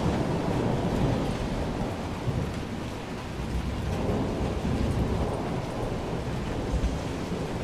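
Steady rain with a low rolling rumble of thunder, loudest at the start, swelling again midway and then easing off.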